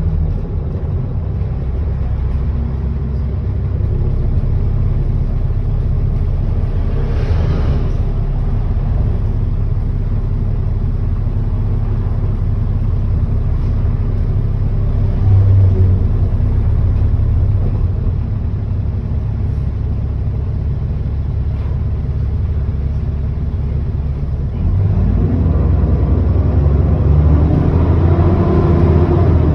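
ADL Enviro400 double-decker bus engine and drivetrain heard on board, a steady low drone while the bus is under way. About 25 s in it gets louder, with a rising note as the bus pulls away or accelerates.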